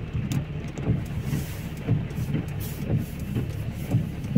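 Heavy rain falling, heard as a low, unevenly pulsing rumble with scattered sharp drip taps.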